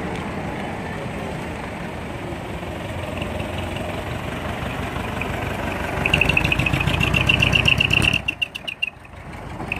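Large truck engine running steadily, then revved about six seconds in: louder, with a fast high-pitched chatter on top, before dropping away abruptly about two seconds later.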